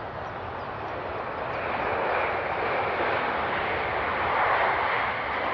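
Jet airliner engine noise: a steady rushing hiss that swells a little about two seconds in and again near the end.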